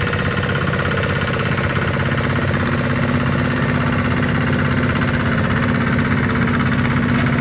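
Small Kubota tractor's engine running steadily.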